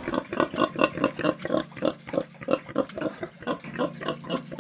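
Domestic pig grunting in a rapid run of short grunts, about five a second.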